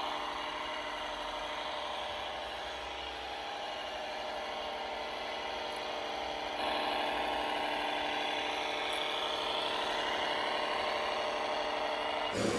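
RC scale model vehicle running with a steady mechanical whir, growing a little louder about halfway through.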